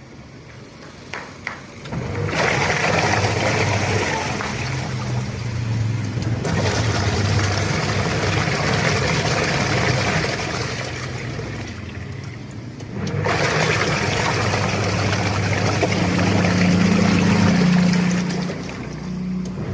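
Washing machine motor turning the drum with water churning inside. It runs, stops briefly about two-thirds of the way through, then starts again by itself, without needing a manual push.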